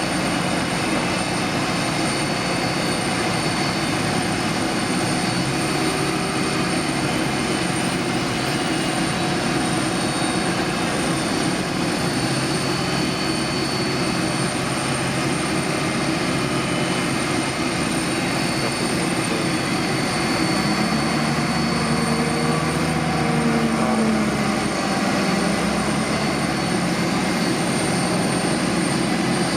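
Boeing 787-8 airliner running on the ground: a steady jet whine, with thin high tones held over a broad rush and no rise or fall in level. A lower tone wavers up and down briefly past the middle.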